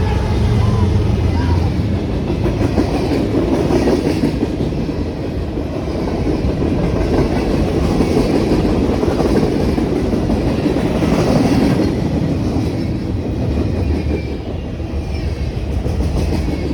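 CSX manifest freight train passing. The locomotive's engine drone fades over the first few seconds, then the freight cars rumble by with a steady clickety-clack of wheels over the rail joints.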